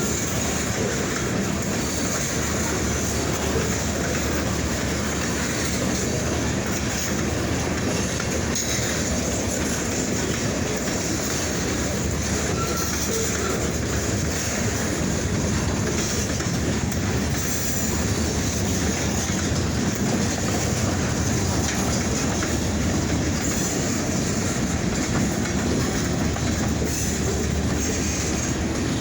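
Freight train rolling past, a steady rumble and rattle of steel wheels on the rails.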